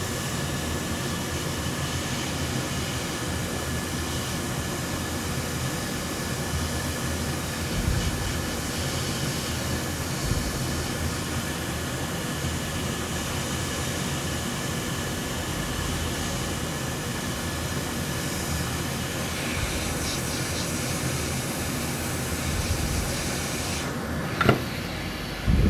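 Steady blowing hiss of a hot air rework station as a small capacitor is desoldered from a laptop logic board. The high part of the hiss drops away shortly before the end, followed by a sharp tap.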